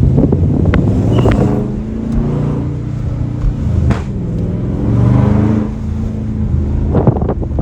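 Car engine revving, its pitch climbing and falling several times, with a burst of rapid crackles near the end.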